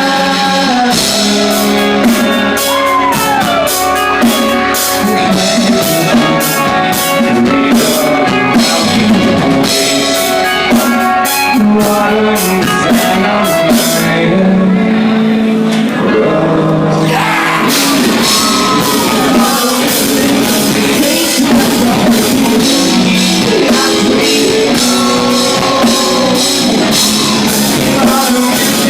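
Live rock band playing loud, with distorted electric guitars, bass, drums and a male singer. The cymbals drop out for a few seconds about halfway through, then the full band crashes back in.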